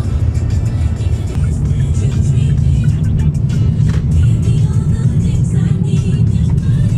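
Steady low road rumble of a moving vehicle, with background music over it.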